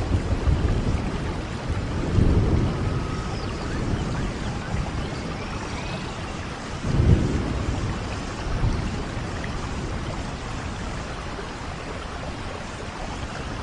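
Steady rain falling, with low rumbles of thunder swelling about two seconds in and again, louder, about seven seconds in.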